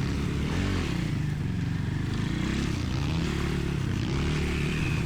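Dirt bike engine running at low revs, its pitch rising and falling slightly as the throttle varies.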